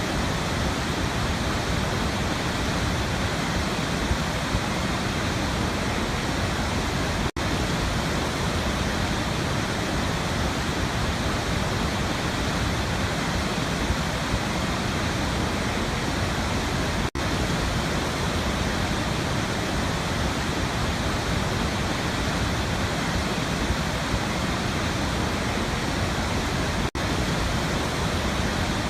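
Waterfall: water falling and rushing in a steady, even roar, with three brief dropouts about ten seconds apart.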